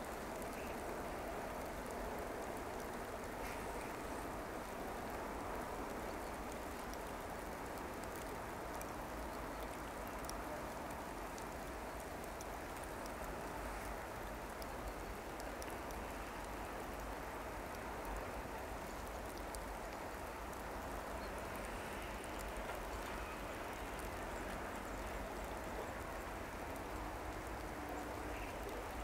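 Steady hiss of light rain, with a low rumble underneath.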